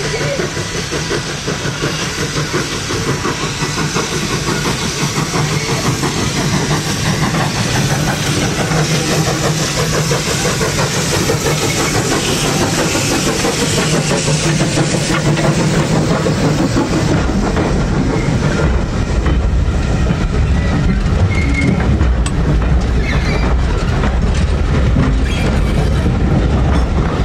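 A train running along the line, its wheels rattling on the rails, growing steadily louder, with a deep rumble joining about two-thirds of the way in.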